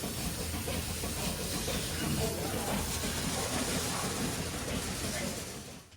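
Steady hissing machine noise with a low hum beneath it and faint voices in the background, fading out at the very end.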